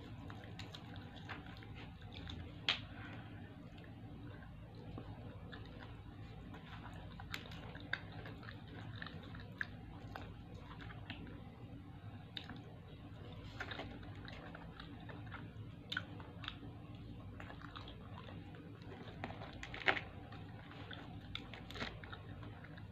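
Fried chicken being pulled apart by hand and chewed: soft, scattered clicks and smacks over a steady low hum.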